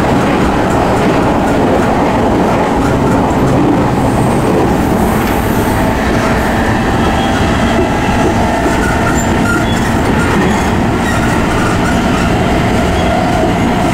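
E217 series electric commuter train running at speed, heard inside a car fitted with MT73 traction motors: a steady, loud rumble of wheels on rail mixed with traction motor noise.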